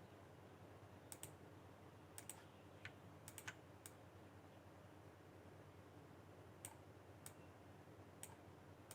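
Faint computer mouse clicks, about a dozen, some single and some in quick pairs or triples, over a steady low hum.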